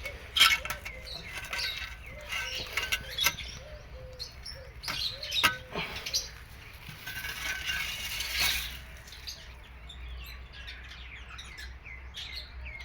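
Small birds chirping and twittering over and over, with a few sharp clicks and a brief rustling noise about seven to nine seconds in.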